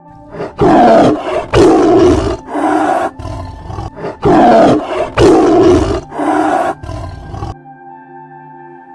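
A big cat roaring in two bouts, each of about three loud calls that trail off into weaker ones. The roaring cuts off abruptly about seven and a half seconds in, leaving faint steady tones.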